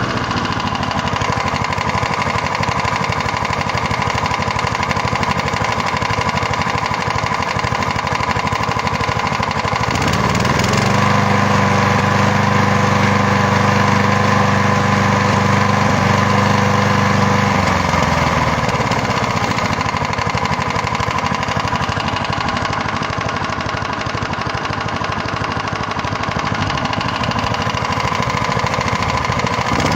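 Gardener lawnmower's small engine running at a steady idle, revved up about a third of the way in, held at the higher speed for about seven seconds, then let back down to idle.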